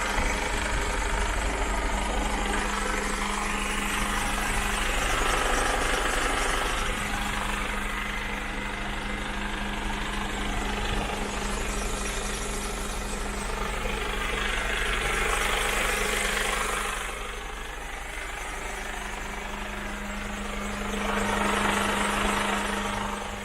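Mercedes Actros 2545's straight-six diesel idling steadily with a constant hum. A hiss swells and fades three times over it.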